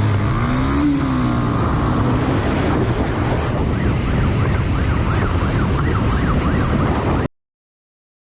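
Loud, steady vehicle engine and road noise with a siren's rising and falling wail over it; the sound cuts off suddenly about seven seconds in.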